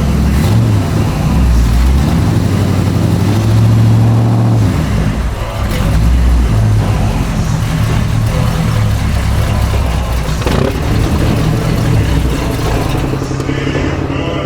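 Toy tractor running with an engine-like drone that rises and falls in pitch, briefly climbing between about two and four seconds in.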